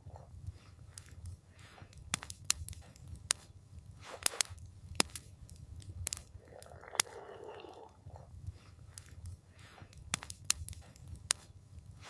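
Campfire crackling, with irregular sharp pops and snaps over a low steady rumble. A soft breathy swell rises and fades a little past the middle.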